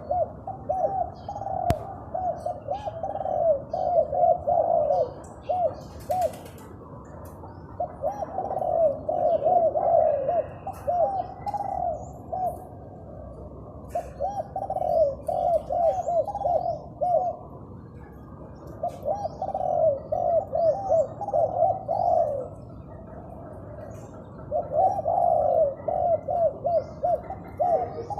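A dove cooing in repeated runs of quick, rising-and-falling notes, each run lasting a few seconds with short pauses between. It is a newly acquired bird that has only just begun to call.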